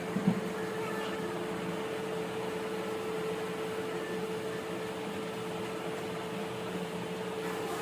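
A steady mechanical hum with a constant low tone under an even hiss, and one brief knock just after the start.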